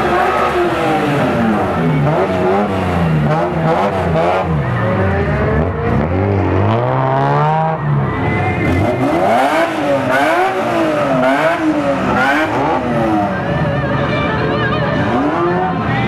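Drift cars' engines revving as the cars roll slowly past, the pitch climbing and falling again and again with repeated throttle blips.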